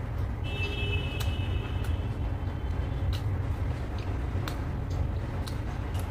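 A person chewing a mouthful of luchi and mutton curry, with scattered small wet clicks and smacks, over a steady low rumble. A high, steady whistling tone sounds from about half a second to three seconds in.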